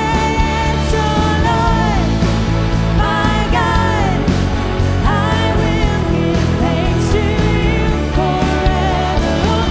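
Worship music with a full band and a lead vocalist singing a melody.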